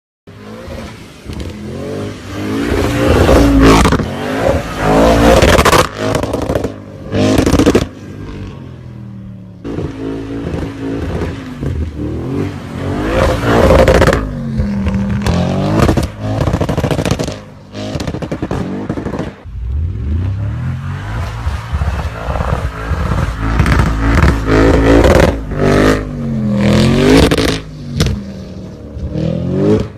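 Audi RS6 engine revving hard again and again while drifting, the pitch climbing and falling with each pull, and several sudden cut-offs when the throttle is lifted.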